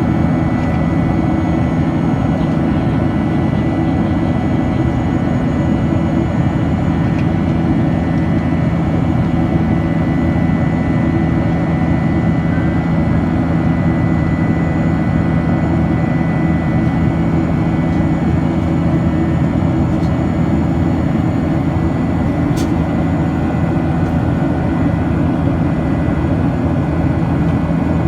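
Steady roar of a Boeing 737-800's CFM56-7B jet engines and airflow in flight, heavy and low, with a few faint fixed whining tones over it.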